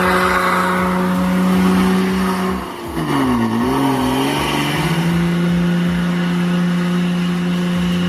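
Ford Cargo 3230 truck's diesel engine running hard under load at steady revs. About three seconds in, its pitch drops and wavers for a couple of seconds, then settles again at a slightly lower steady pitch.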